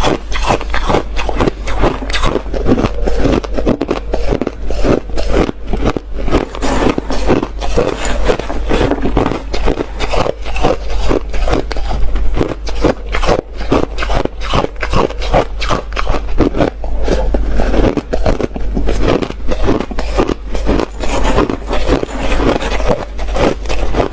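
Hard ice being bitten and chewed close to the microphone: a continuous rapid run of loud crunches and cracks, over a steady low hum.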